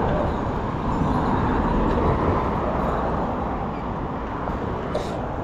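Steady rushing wind on the microphone and road noise from riding a pedal bike in street traffic.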